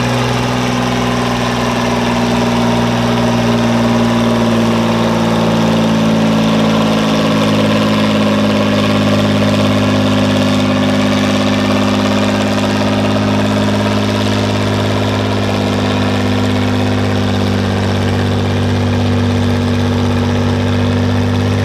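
Tractor engine running steadily at a constant speed, its pitch holding level throughout.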